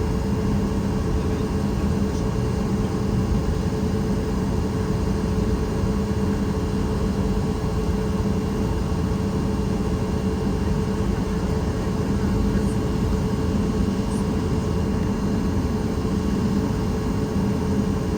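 Steady cabin drone inside a Boeing 737 MAX 8 airliner, engine and airflow noise with a low hum and a higher steady tone held throughout.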